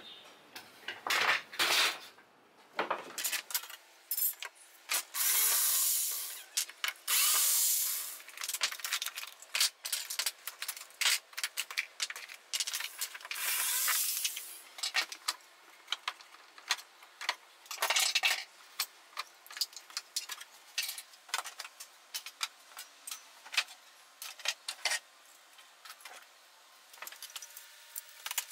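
Woodworking workshop sounds: several short runs of a power tool, each lasting a second or two, among many knocks and clatters of wood and tools being handled.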